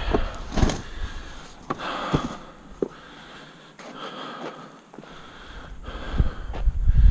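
Footsteps on dry dirt and hard, breathy panting from a man carrying a heavy planter, with scattered knocks; a low rumble builds near the end.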